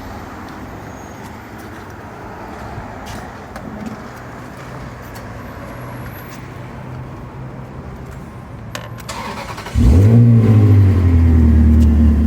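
Ferrari V8 engine starting: a short crank about ten seconds in, catching with a brief rise in revs, then settling into a loud steady idle. Before it, low steady workshop background with a couple of clicks.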